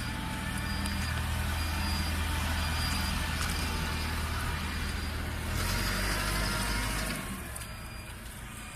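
Gasoline/LPG dual-fuel forklift truck running, its engine humming steadily while a warning beeper gives repeated short high beeps. About five and a half seconds in a louder rushing swell lasts a second or so, then the engine sound drops quieter.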